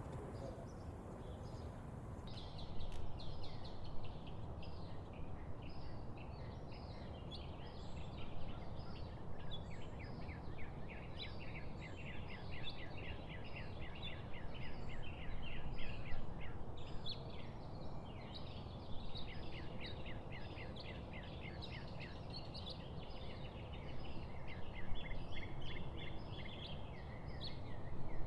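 A flock of small birds chirping and twittering rapidly, many short overlapping calls starting a couple of seconds in, over a steady low background noise.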